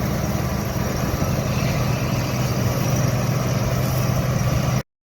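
Vintage farm machine's engine running steadily with an even low drone, cut off abruptly near the end.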